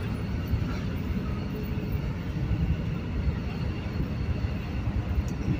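Steady low rumble of engines on a ferry's vehicle deck, with no clear pitch.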